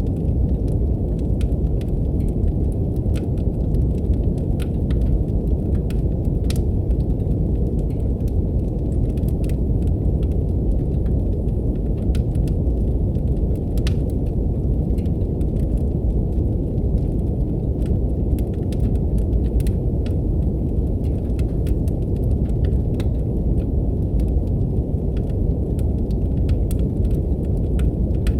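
Steady deep brown noise, a low even rush, with a wood fire's crackle laid over it: scattered small sharp pops and snaps at irregular moments throughout.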